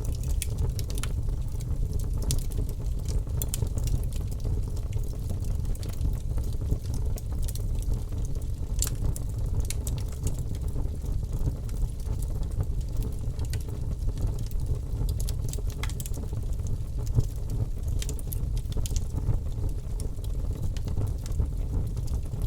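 Logs burning in an open fireplace: irregular crackles and sharp pops over a steady low rumble of the flames, with one louder pop about three-quarters of the way through.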